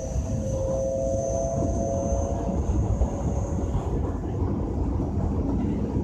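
JR West 225 series 5000-subseries electric train running, heard from inside the car: a steady low rumble of the running gear, with steady high-pitched tones that fade out about two and a half seconds in.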